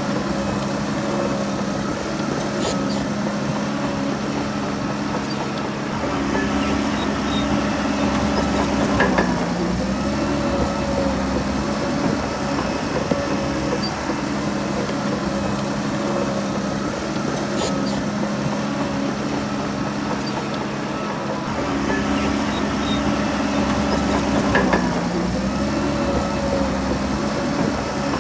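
Heavy diesel engine of a Shantui DH17C3 crawler bulldozer running steadily. Its pitch sags briefly twice, about nine seconds in and again near the end, while a deeper rumble swells and fades around those moments.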